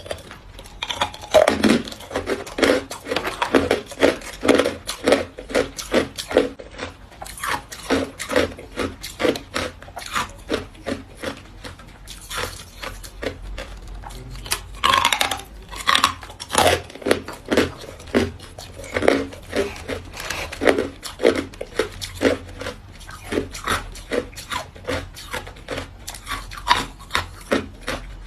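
Hard white ice being bitten and chewed: a steady run of sharp crunches, roughly two a second.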